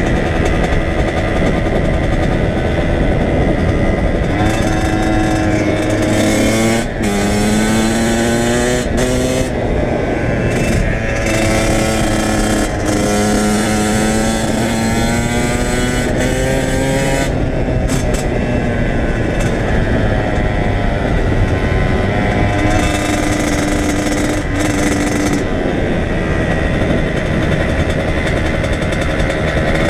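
Kawasaki KX100 two-stroke dirt bike engine running while riding. Its pitch repeatedly climbs and drops as it accelerates and shifts, with a sharp break and drop just before 7 seconds in.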